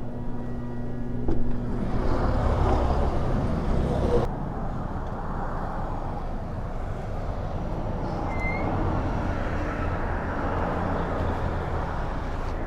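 Motorcycle engine running with road and wind noise: a steady hum at first, a louder stretch that cuts off suddenly about four seconds in, then an even rumble.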